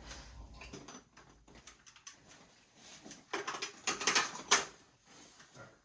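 Faint rustling, then a cluster of sharp clicks and knocks from about three to four and a half seconds in, the last one the loudest.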